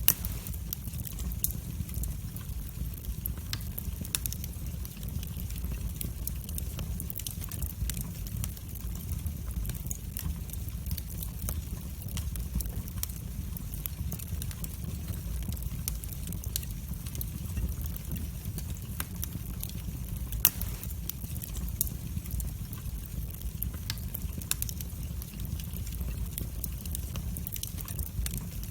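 Wood fire burning in a fireplace, with a steady low rumble of the flames and irregular sharp crackles and pops, a louder pop about twenty seconds in.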